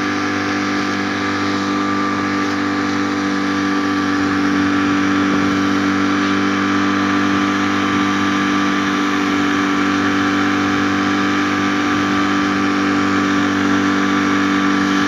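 Boat's motor running steadily under way, getting a little louder about four seconds in.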